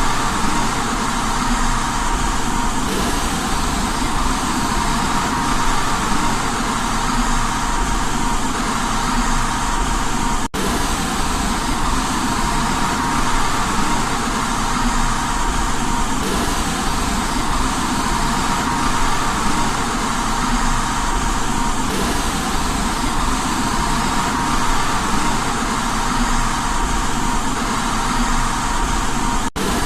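Steady white noise for baby sleep, an even hiss with a faint steady tone running through it. It cuts out for an instant about ten seconds in and again near the end.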